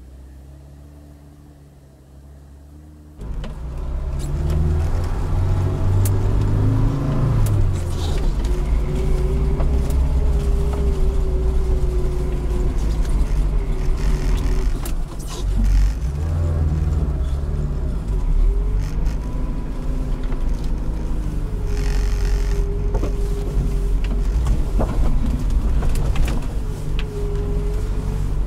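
Lada Niva running under load off-road, the engine pitch rising and falling with the throttle over a heavy low rumble, with scattered knocks and rattles from the car going over rough ground. The sound is quieter for about the first three seconds, then jumps suddenly to full loudness.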